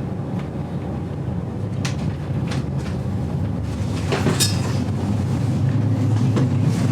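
Inside a vintage GoldenPass Belle Époque railway carriage under way: the steady low rumble of the running train on the rails, with a few sharp clicks and knocks, the loudest a little past four seconds in. It grows slightly louder toward the end.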